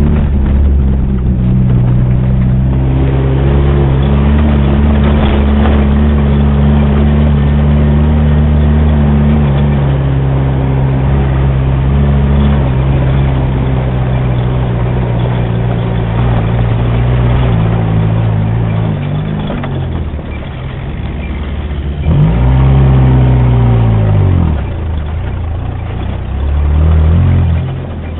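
Engine of an off-road 4x4 running steadily under load on a dirt trail. It eases off about two-thirds through, then revs up and back down twice near the end.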